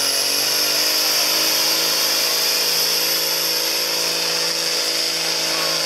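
Farm tractor's diesel engine running hard at high revs under load as it pulls a weight-transfer sled in a stock tractor pull. Its steady note climbs slightly in the first second, then holds.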